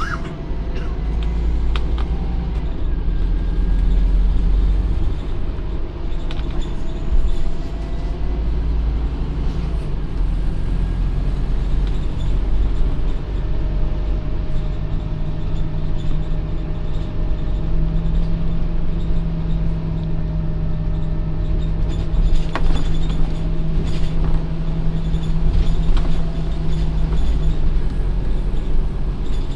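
Scania OmniCity double-decker bus running, a continuous low engine rumble. A steadier, stronger drone is held through the middle stretch and drops away a couple of seconds before the end.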